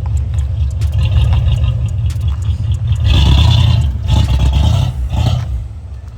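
A vehicle engine running with a deep, steady rumble, surging louder a few times between about three and five and a half seconds in, then dropping off near the end.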